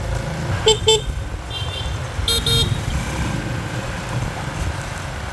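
Motorbike horns tooting in short beeps: two quick toots about a second in, a fainter run just after, and another toot around two and a half seconds. Underneath runs the steady low rumble of motorbike engines and road noise while riding.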